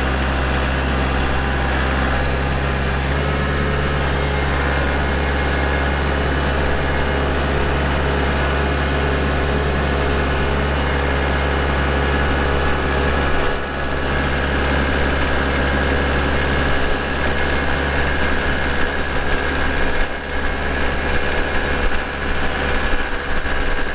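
Kubota L4701 compact tractor's diesel engine running steadily as the tractor drives along. The sound turns more uneven over the last ten seconds or so.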